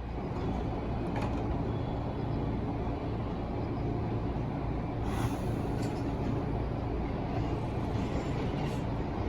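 Electric passenger train running on the JR Nara Line, heard from inside the car: a steady rumble of wheels and running gear, with a few faint clicks and a brief high hiss about five seconds in.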